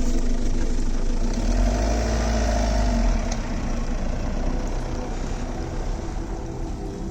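2003 Mitsubishi Triton/L200 pickup's 2.5-litre engine running steadily while driving, with a deep low rumble that swells between about one and a half and three seconds in, then eases a little.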